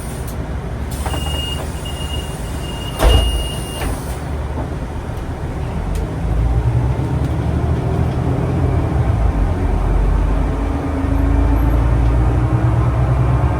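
On board a city bus or tram: a door-warning beep sounds several times, the doors shut with a loud thump about three seconds in, and the vehicle pulls away, its low rumble growing louder from about six seconds on.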